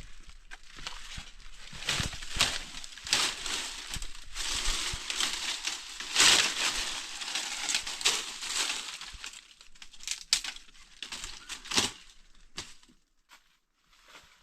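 Irregular crunching and rustling with sharp clicks, loudest about halfway through and dying away near the end.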